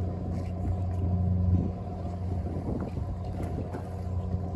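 A boat's engine running steadily, a low hum that swells a little about a second and a half in.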